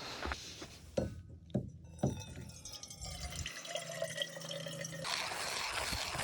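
Water being poured from a kettle, after three light knocks in the first two seconds; the pour gets louder about five seconds in.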